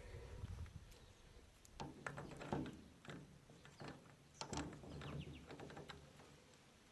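Scattered light metal clinks and knocks from handling a baler's roller chain and parts during chain installation, with a quick run of small ticks about halfway through.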